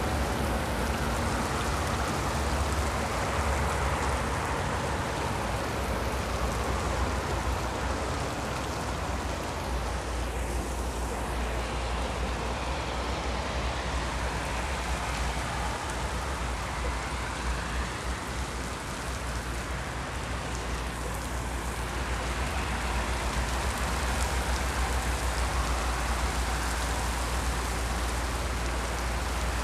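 Steady rain falling, a continuous hiss that swells and eases slowly, over a steady low rumble.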